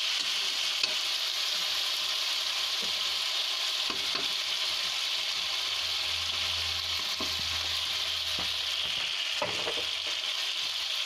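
Chopped onions and red chilli paste sizzling steadily in hot oil in a kadhai, stirred now and then with a steel spatula.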